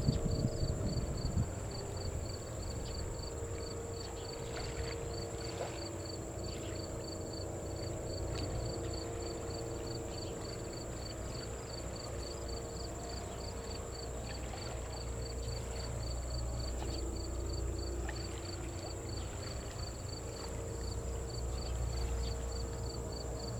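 Distant jet airliner engines giving a steady low rumble with a faint droning hum, while insects chirp in a fast, even rhythm over a constant high-pitched insect buzz.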